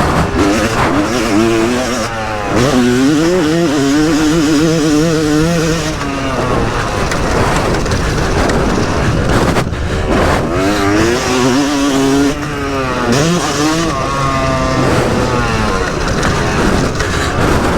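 Yamaha YZ250 single-cylinder two-stroke motocross engine revving hard under load. Its pitch climbs and falls over and over as the throttle is opened and shut, with several brief drops.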